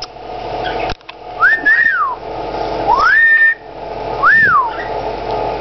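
Pet talking bird whistling three times: clear glides that rise and fall, the second rising and holding before it breaks off. A steady hum runs underneath.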